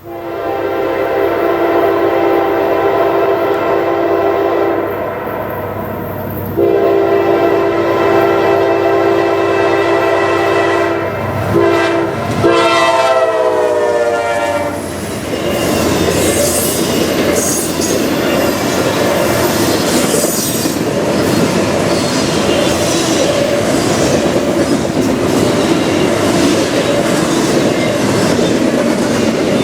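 Train horn sounding a chord in the long, long, short, long pattern of a grade-crossing signal, the pitch dropping on the last blast as it passes. Then the train rolls by with steady wheel and rail noise.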